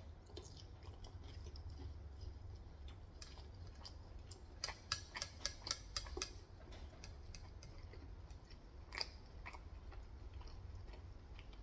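Close-up chewing of crunchy Korean fried chicken, with a quick run of crisp crunches in the middle and two more a few seconds later, over a steady low hum.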